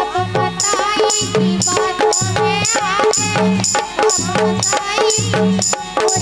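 Indian folk music instrumental passage: a hand drum keeps a rhythm under a wavering melody line. A bright metallic jingle sounds about twice a second.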